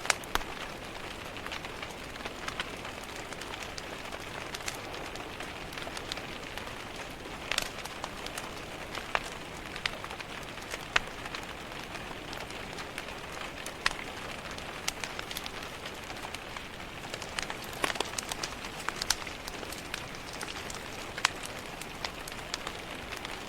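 Steady rain pattering on a window glass, mixed with the irregular crackles and sharp pops of a wood fire burning in a fireplace.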